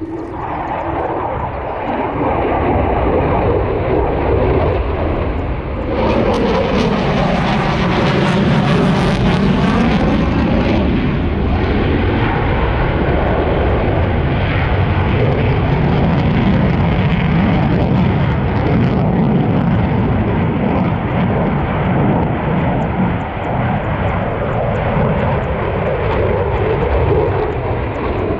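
Military aircraft flying past with a loud, steady engine rush that swells about six seconds in, with a sweeping, phasing tone as it passes overhead, and stays loud.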